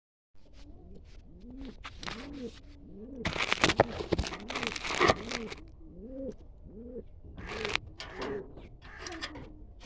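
Pigeons cooing: a run of short, rounded low coos repeating about every half second. Loud bursts of rustling noise come from about three to five and a half seconds in, and again briefly near eight and nine seconds.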